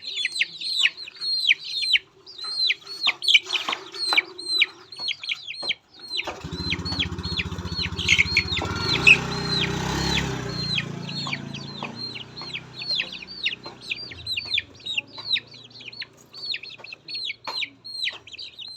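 A flock of poultry chicks peeping continuously, many short high calls that each drop in pitch. A few seconds in, a low mechanical drone starts suddenly and fades out about halfway through.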